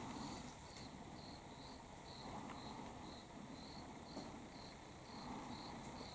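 An autumn cricket singing faintly: a steady run of short, high chirps at about three a second.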